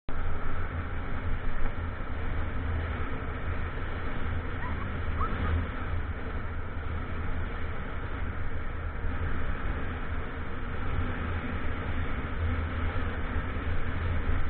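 Motorcycle running steadily under way, a low engine drone under a continuous rushing noise of wind and road.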